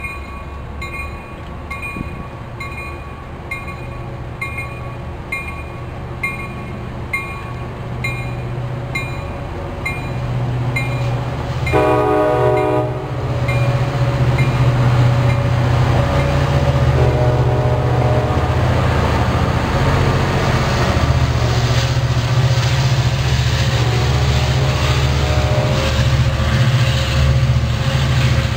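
Sounder commuter train at the station: a bell rings about twice a second, a short horn blast sounds about twelve seconds in, and then the diesel locomotive's engine and the wheels run loud and steady until the end.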